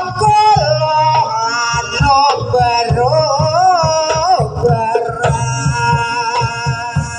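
Live Jaranan Buto accompaniment music: a high, wavering melody line sliding and bending in pitch over rapid, irregular drum beats.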